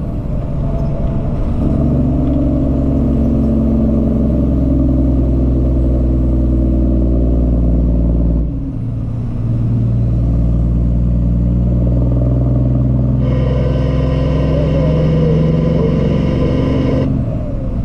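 Cummins ISX inline-six diesel in a truck running steadily under way, heard from the cab. The engine sound drops briefly about eight and a half seconds in, as with a gear change. A higher steady tone joins for a few seconds near the end.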